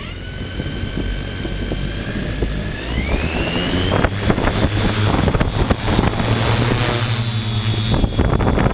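Drone's electric motors and propellers running with a steady whine that rises in pitch about three seconds in as the motors speed up, over heavy wind buffeting the microphone. A short high beep sounds at the very start.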